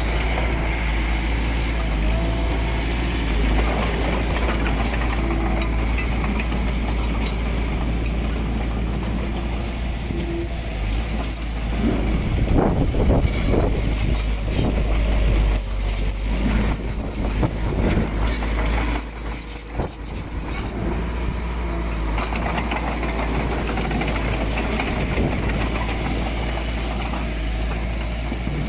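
Heavy earthmoving machinery with a diesel engine running steadily throughout. Through the middle of the clip it gives a stretch of metallic clanking and scraping with high squeaks.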